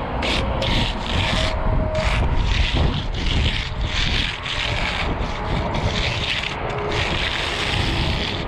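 Magnesium hand float scraping back and forth over wet concrete in short repeated strokes, about one or two a second, feathering out a high spot in the surface.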